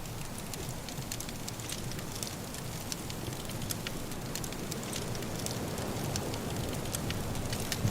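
Wood fire burning in a fireplace, crackling with many sharp irregular pops over a steady low rushing of wind, slowly growing louder.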